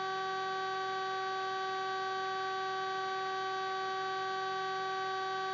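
A steady, unchanging electrical whine with several overtones on the police helicopter's intercom and radio audio feed, heard in a gap between transmissions.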